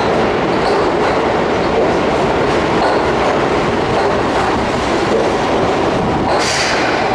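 Keihan Main Line electric train moving through the underground station platform, a steady loud rumble with wheels clacking over the rails. A brief high hiss comes about six seconds in.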